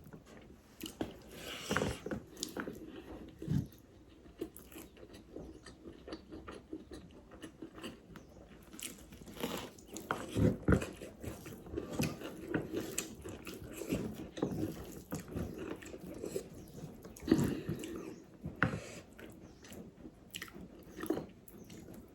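Close-miked mouth sounds of a person eating: irregular chewing, wet smacks and crunches, with a few louder bites scattered through.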